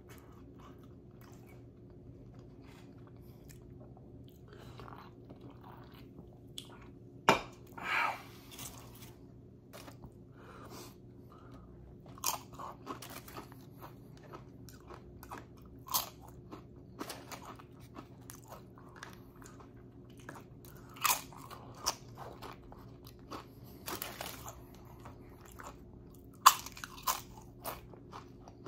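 Close-up chewing and crunching of tortilla chips, with scattered sharp crunches, the loudest about seven seconds in and near the end. A steady low hum runs underneath.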